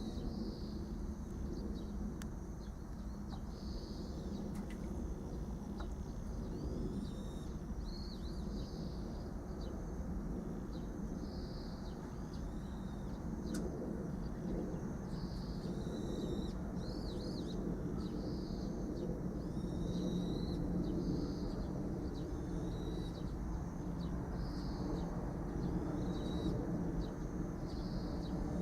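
A bird calling short, high phrases over and over, one every second or two, over a steady low background rumble.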